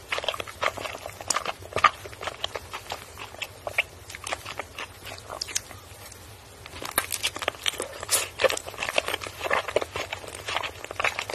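Close-miked chewing of ice cream mochi: soft, sticky mouth clicks and smacks. A bite comes about seven seconds in, after which the chewing is busier.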